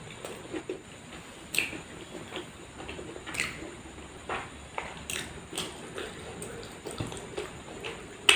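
Close-miked eating sounds: wet chewing and lip smacks with irregular sharp clicks, one every half second to a second or so, and the loudest snap near the end.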